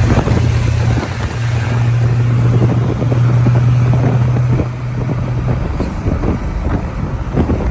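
Ford F-250 pickup driving on the road: a steady low drone with road and wind noise and irregular knocks and rattles, the drone falling away about five and a half seconds in.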